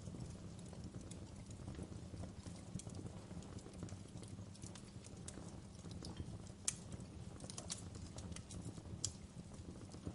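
Wood fire in a fireplace crackling: irregular sharp pops and snaps over a low, steady rumble of the burning fire, with a few louder pops in the second half.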